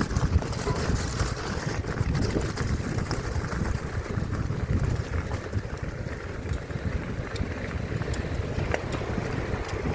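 Wind buffeting the microphone: a steady, uneven low rumble with a few faint ticks.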